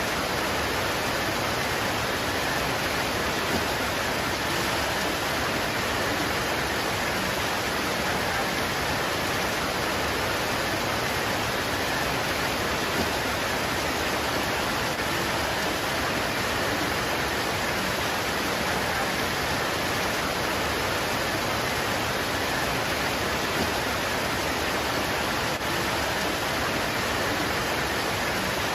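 Steady heavy rain pouring onto leaves, an even unbroken hiss.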